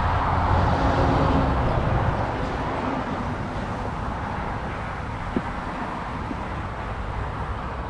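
A car passing on the road, its tyre and road noise loudest in the first couple of seconds and then slowly fading away.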